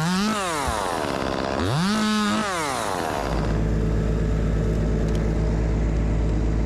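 Gas chainsaw revved up and let back down twice, then settling about three seconds in into a steady low idle.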